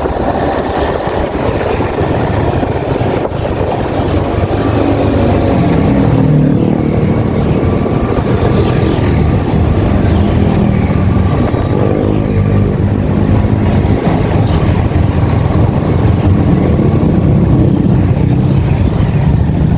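Yamaha XSR155's single-cylinder engine running under way, over a dense low rush of noise. The engine note grows stronger about five seconds in, and its pitch rises and falls with the throttle.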